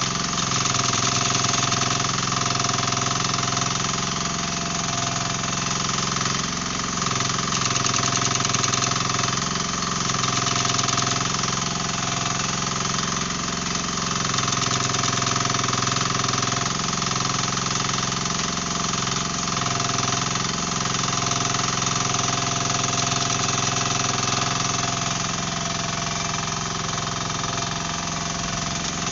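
Mini excavator engine running steadily at a constant speed.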